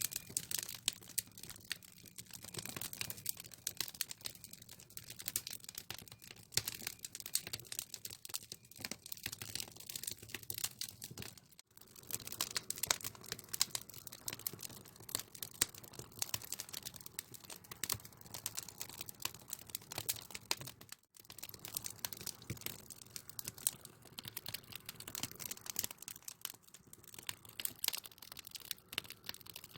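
Firewood crackling as it burns in an agungi, a traditional Korean wood-fired firebox: a dense, irregular run of sharp crackles and pops, broken by two brief gaps about 12 and 21 seconds in.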